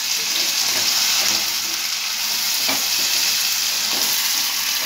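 Chicken pieces sizzling in ghee in a non-stick pan as a spatula stirs and scrapes through them, a steady frying hiss with a couple of spatula strokes standing out. This is the kosha (bhuna) stage: the meat is dry-fried with onion and spices until nearly done, before water is added.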